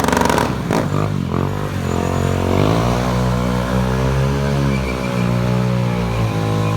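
Stunt motorcycle engine revving: a few sharp knocks at the start, the revs climbing over the first couple of seconds, then held fairly steady with small rises and dips.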